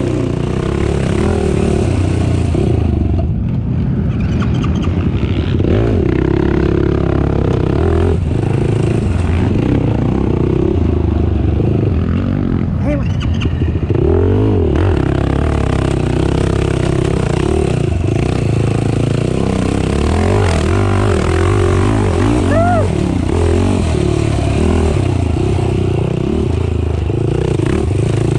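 Racing ATV engine running hard over an off-road course, its pitch rising and falling again and again as the rider revs, shifts and backs off, with clattering and scraping from the machine over rough ground.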